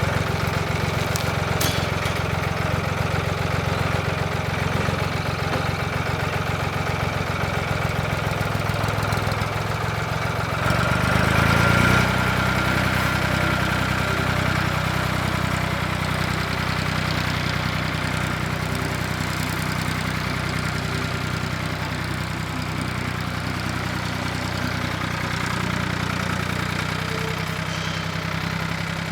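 An engine running steadily. About eleven seconds in it briefly gets louder and changes pitch, then settles back to steady running.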